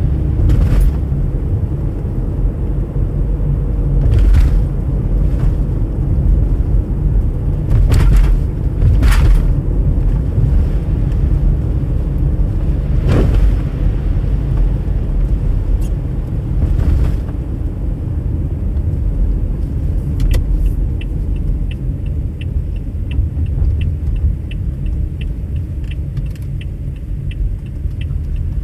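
Steady low road and engine rumble of a car driving, with a few brief swooshes of passing noise. In the last third a car's turn signal starts ticking steadily.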